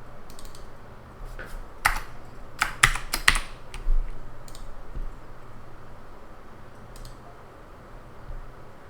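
Typing on a computer keyboard: a short run of keystrokes with a few sharp, louder key clacks between two and three and a half seconds in, then scattered single clicks. A faint steady low hum lies under it.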